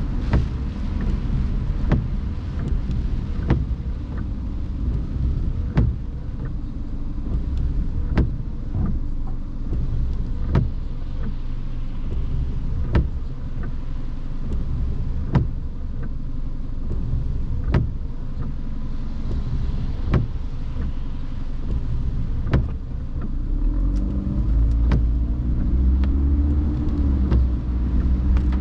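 A car driving in the rain: steady low engine and road rumble, with a light click repeating about every second and a bit. Near the end the engine note rises and falls as the car speeds up.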